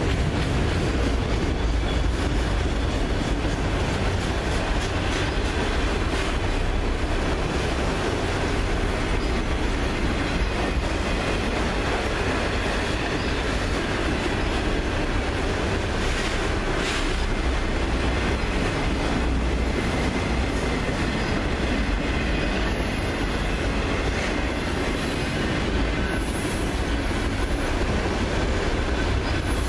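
Multilevel autorack freight cars rolling past at close range: a steady rumble and rattle of steel wheels on rail, with no break as car after car goes by.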